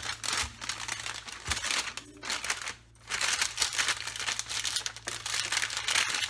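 Parchment paper bag crinkling and rustling as it is handled and filled, with brief pauses around two and three seconds in and steadier crinkling after.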